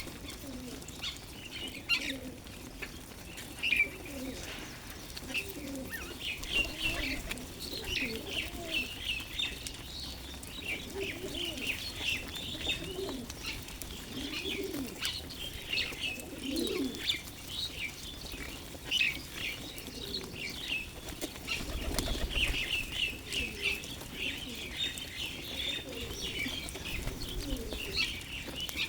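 A flock of birds at feed: many small birds chirping rapidly without pause, pigeons cooing low underneath, and wings flapping now and then.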